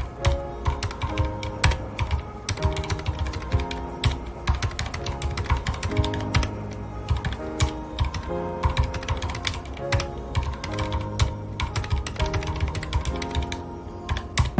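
Mechanical keyboard with red linear switches being typed on steadily, a quick, irregular stream of key clicks and clacks, over soft background music with held notes.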